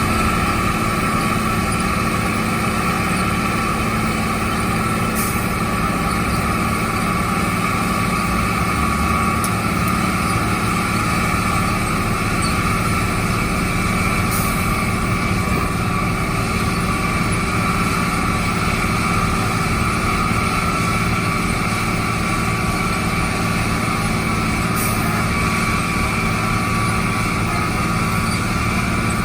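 Heavy construction machinery's engine running steadily under load, with no change in pitch or level.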